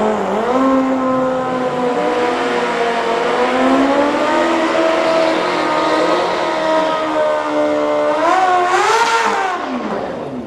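Racing vehicle engine running hard, its pitch shifting and holding in steps, then rising and falling again near the end.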